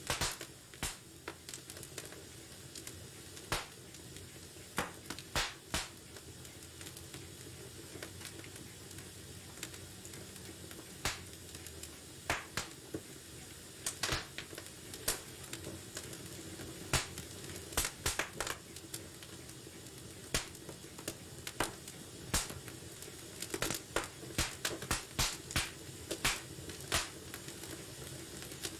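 Wood fire crackling in a fireplace: irregular sharp pops and snaps over a steady low hiss of burning, the pops coming more often in the second half.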